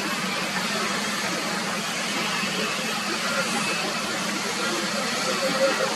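Jet airliner engines heard at a distance as a steady rushing noise with a faint whine.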